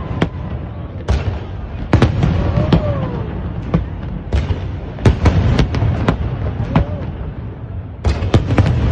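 Fireworks display bursting overhead: a run of sharp bangs, sometimes several a second, over a continuous low rumble, with a quick cluster of bangs near the end.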